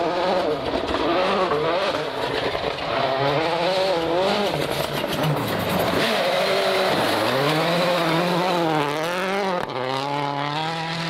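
Rally car engine revving hard, its revs dropping and climbing several times, over a steady rushing noise.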